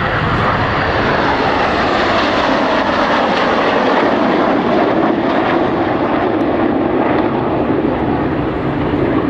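BAE Systems Hawk jets of the Red Arrows flying in formation, a loud continuous rush of jet-engine noise as they pass.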